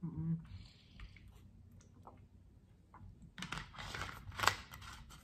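A person chewing and crunching food close to the microphone, in a few irregular bursts with one sharper crunch near the end.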